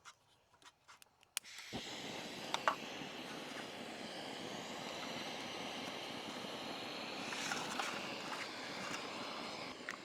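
A few faint clicks, then from about two seconds in a steady, even outdoor background noise that holds without change.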